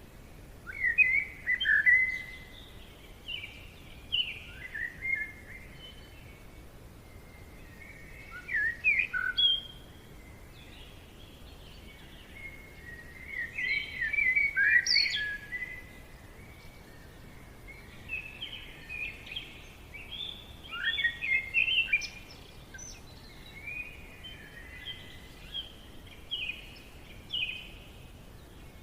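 Songbirds singing in a forest: short, quick, warbling phrases about every three to five seconds, over a faint steady background hiss.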